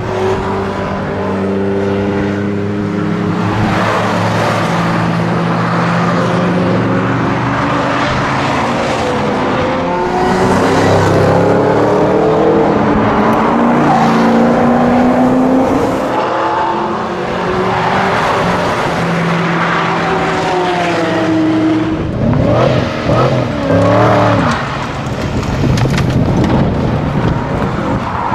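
Sports-car engines revving and accelerating hard, pitch climbing and falling back with each gear change. Near the end a Chevrolet Camaro revs in quick, uneven bursts as it swings round in a donut, tyres squealing.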